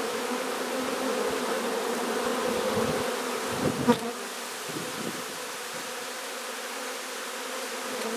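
Swarming honeybees buzzing close to the microphone, a steady hum that swells and eases as bees fly near. A short knock comes about four seconds in, and the hum is a little quieter after it.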